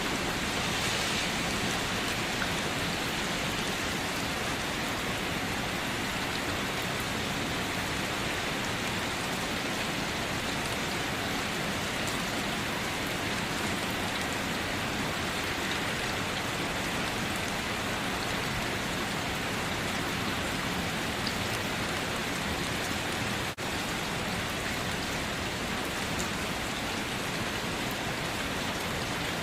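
Steady rain falling, an even, unbroken hiss of many drops, with one momentary drop-out about three-quarters of the way through.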